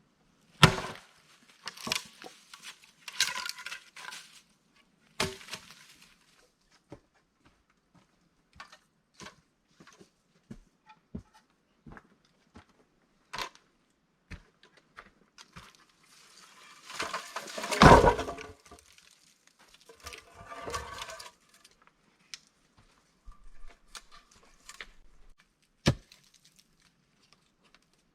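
Irregular knocks, clicks and rustling of things being handled, with a heavier thump and rustle about two-thirds of the way through.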